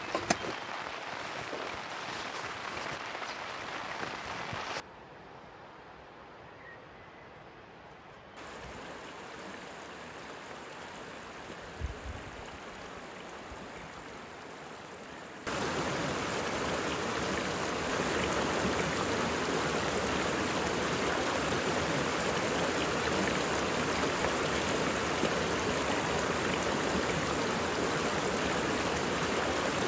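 Rain falling, then after a few abrupt cuts a river rushing steadily, much louder from about halfway on.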